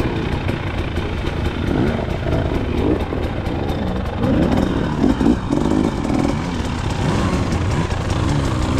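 KTM XC-W 300's single-cylinder two-stroke engine running under a rider, its pitch repeatedly climbing and dropping as the throttle is opened and closed, over a steady low rumble.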